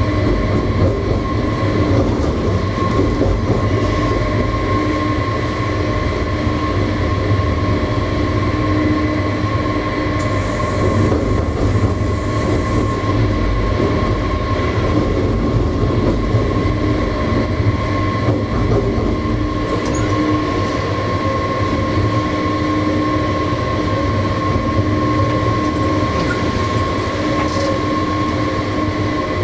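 Electric train running at steady speed, heard from the driver's cab: a constant rail and wheel rumble with a steady whine, and a brief hiss about ten seconds in.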